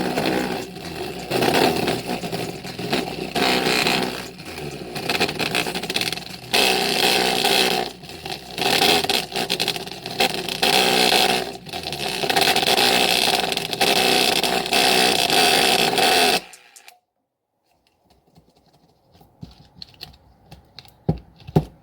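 Speaker being overdriven with bass-boosted music, badly distorted and rattling. It cuts out suddenly about three-quarters of the way through as the speaker fails, leaving only faint crackles and clicks.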